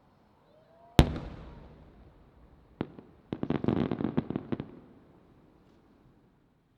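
Aerial fireworks heard from a distance. A faint rising whistle leads into one loud bang of a shell bursting, with a long fading rumble after it. A single report follows, then a quick run of many small crackling pops lasting about a second.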